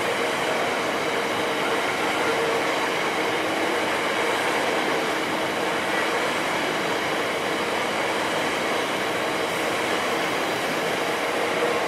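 A freight train of bogie coal hopper wagons rolling steadily past: a continuous rumble and rattle of steel wheels on the rails, with a faint thin tone held over it.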